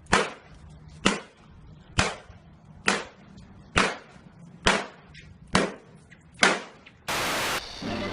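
Eight gunshots fired one after another, evenly spaced about one a second, each with a short ringing tail. A half-second burst of static follows near the end.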